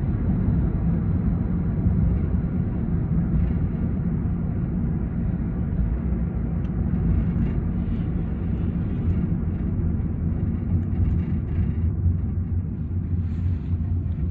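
Steady low rumble of road and engine noise heard from inside a moving taxi cab.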